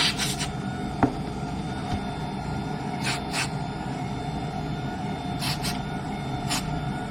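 Electric wiper motor running a newly fitted wiper linkage on test: a steady hum with a click about a second in and several brief hissing sounds.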